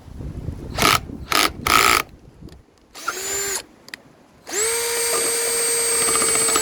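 Baur 20-volt cordless drill working a hole in wood: a few short noisy bursts in the first two seconds, a brief spin-up about three seconds in, then from about four and a half seconds a steady run with an even whine.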